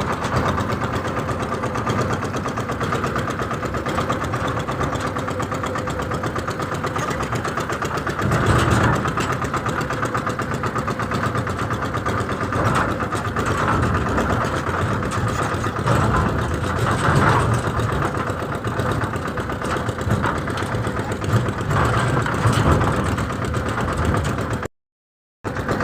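Massey tractor engine running steadily, rising briefly a few times, with the sound dropping out for a moment near the end.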